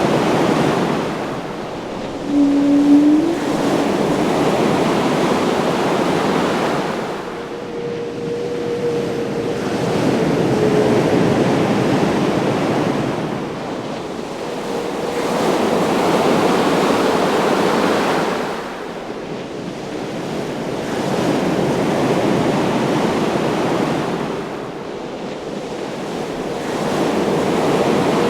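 Ocean surf: waves rolling in and washing back, swelling and fading roughly every six seconds, with wind howling in faint held tones. A short rising tone about three seconds in is the loudest moment.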